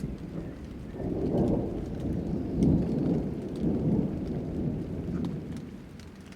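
Rolling thunder rumbling low, swelling about a second in and dying away near the end, over light rain with scattered drop ticks.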